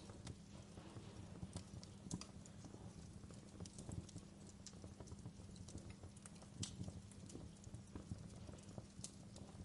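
Wood fire burning in a fireplace, crackling with irregular sharp pops and snaps over a steady low rumble of the flames. A few pops stand out louder, about two seconds in, near the middle and near the end.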